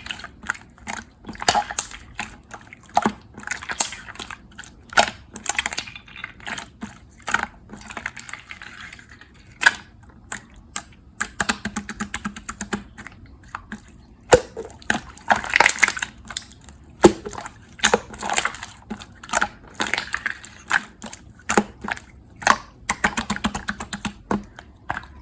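Clear slime being squeezed and stretched by hand, giving an irregular run of sticky clicks and small pops.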